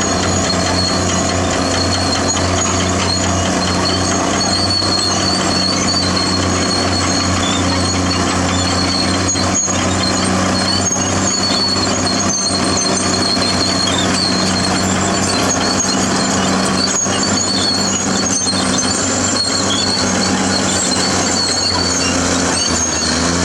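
Caterpillar D6R bulldozer's diesel engine running steadily, with high-pitched squeaks coming and going over it.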